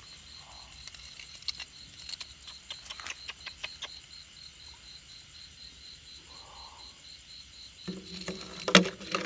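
Insect chirping: a steady high pulse about four times a second, with scattered clicks. A louder low hum comes in near the end.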